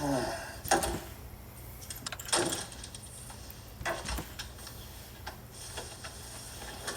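Scattered sharp clicks and knocks, a handful spread irregularly over several seconds, like handling or tapping on a desk, over a low steady hum; a short sound falling in pitch opens it.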